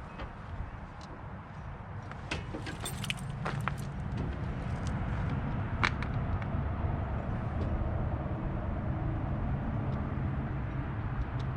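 Twin-cylinder Lombardini diesel in an Allis-Chalmers 920 garden tractor turning over on its electric starter, powered from a jump box, while fuel is being brought up to the injectors. A steady low mechanical drone grows louder after a few seconds, with a few metallic clinks near the start.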